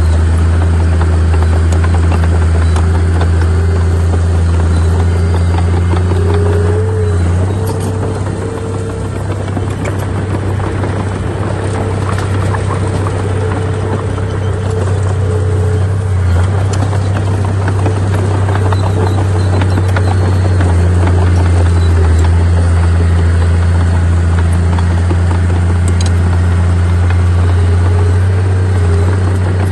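Diesel engine of heavy earthmoving machinery running steadily under load, a deep constant drone with a higher whine that rises briefly about seven seconds in.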